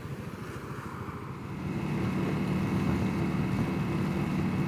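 Honda CRF300L's single-cylinder engine running at a steady note, growing louder about a second and a half in and then holding level.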